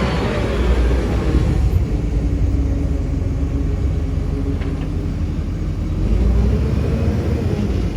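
Heavy earthmoving machine's diesel engine running with a deep, steady rumble that swells slightly about six seconds in.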